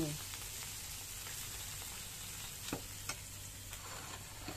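Black pepper mud crabs sizzling steadily in a wok, with a few light clicks of a spoon against the wok and plate.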